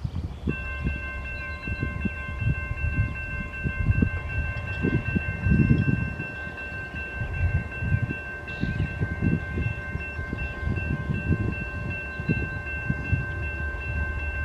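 A CSX freight locomotive's air horn holding one long, steady chord, over the low rumble of the approaching train and wind buffeting the microphone.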